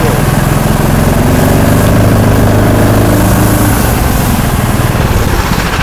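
Small engine of a tracked motorized snow pusher (motodog) running under throttle, its pitch rising about a second in and holding steady, then wavering near the end.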